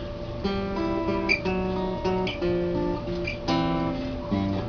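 Acoustic guitar playing a country-blues intro, with picked bass notes and strummed chords starting about half a second in.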